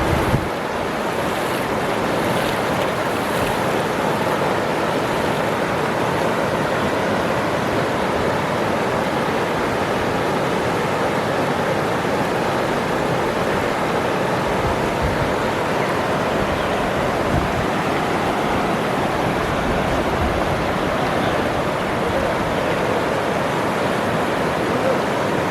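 Waterfall: a steady, loud rush of falling water, with a brief low thump right at the start.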